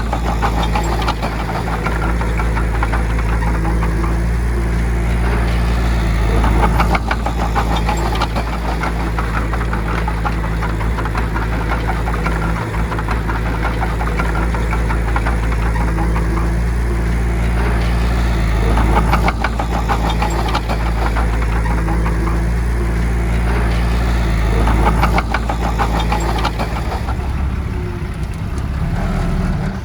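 Bulldozer's diesel engine running steadily under load, with a dense mechanical rattle that swells and fades every few seconds.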